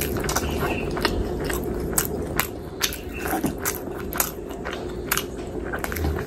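Close-miked chewing and biting of a mouthful of mutton biryani eaten by hand, with many short wet mouth clicks.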